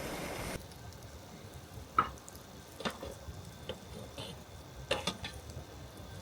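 A steady hiss cuts off about half a second in. Then come scattered light clicks and taps, five or so, over a quiet background.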